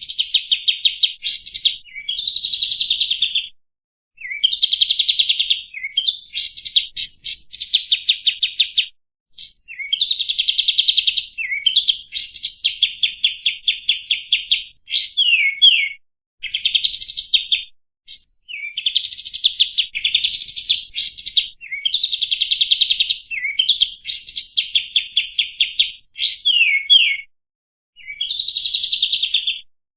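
Kapas tembak, a bulbul, singing a steady run of rapid chattering trills, phrase after phrase of one to two seconds each with short pauses between, some ending in quick falling or rising slurred notes.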